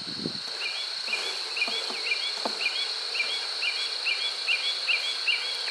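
Outdoor insect chorus: a steady high-pitched trill with a short chirp repeating about two to three times a second, typical of crickets.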